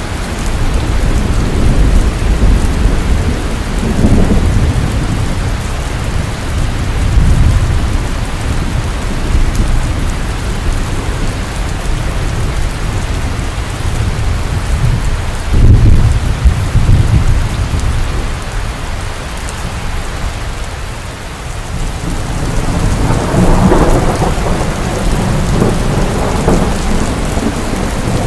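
Steady rain falling, with rolls of thunder rumbling low underneath that swell and fade several times, the loudest about halfway through and again near the end.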